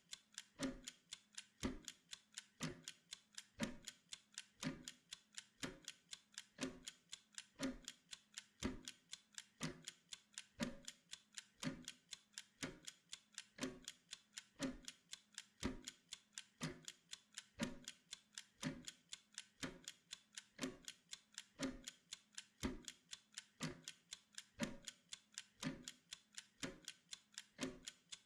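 Steady, even clock-style ticking of a timer, one stronger tick about every second with lighter ticks between.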